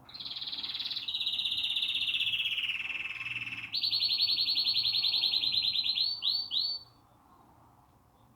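Domestic canary singing a series of rapid trills: a high trill, then one sliding gradually lower, then a loud, fast, high trill that breaks into a few separate upswept notes and stops about seven seconds in.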